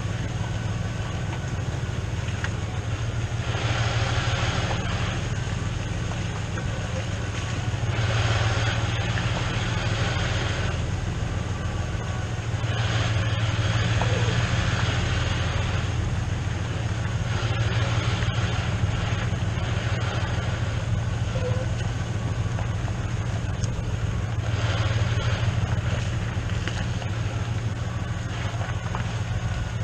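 A vehicle's engine running steadily with a low drone as it pulls a loaded hay trailer, with noisier stretches that swell and fade every few seconds.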